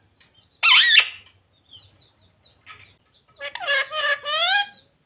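Ringneck parrot giving one loud, harsh screech about half a second in, a few soft chirps, then a short high-pitched talking phrase in its mimicking voice near the end.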